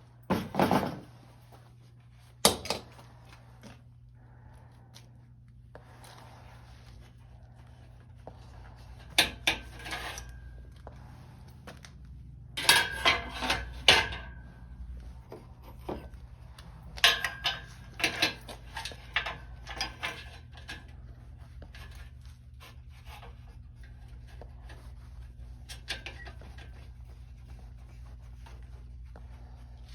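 Workshop clatter of parts being handled: irregular knocks and clanks in clusters about 9, 13 and 18 seconds in, several of them with a short metallic ring, over a steady low hum.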